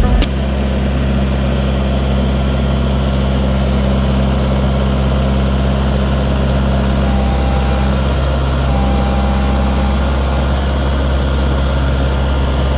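Kubota tractor's engine running steadily at a constant speed.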